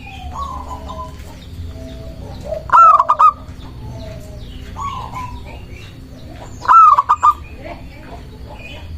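Zebra dove (perkutut) singing its coo, a loud, quick phrase of clipped notes repeated twice about four seconds apart, with fainter bird chirps between.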